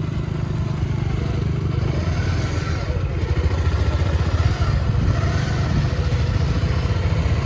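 Motorcycle engine running steadily at a constant pace, with a dense low rumble.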